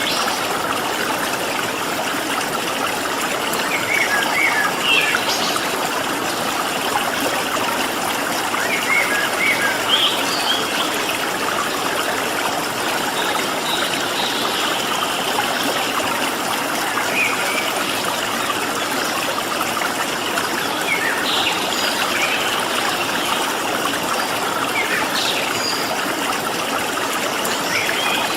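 A stream of water flowing steadily, with small wild birds giving short high chirps every few seconds over it.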